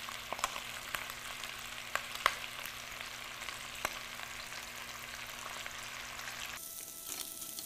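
Chicken pieces frying skin-down in black sesame oil in an enamelled cast-iron pot: a steady sizzle with scattered sharp pops and crackles.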